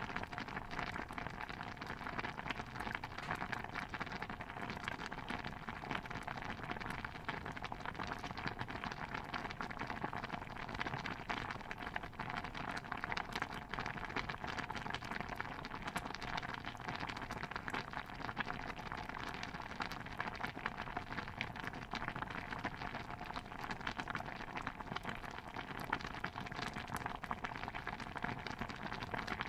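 Layered kitchen ambience soundscape: a steady, dense patter of many tiny pops and crackles, with no single sound standing out.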